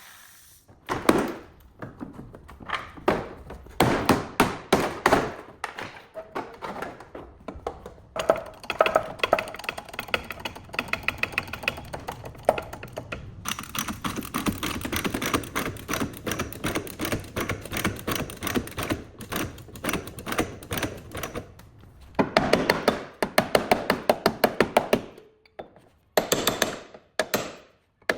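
Runs of quick, sharp tapping and knocking strikes, some spaced out and some fast and dense. They come from tools working on a car body during collision repair.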